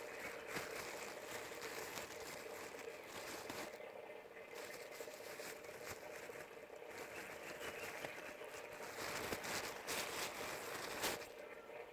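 An animal eating, with faint irregular crunching and crinkling and scattered small clicks over a steady low hum.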